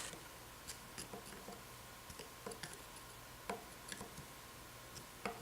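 Faint, irregular light clicks and taps of small Zenith 35/40 carburettor parts being handled during reassembly, about a dozen spread unevenly, over a faint steady hum.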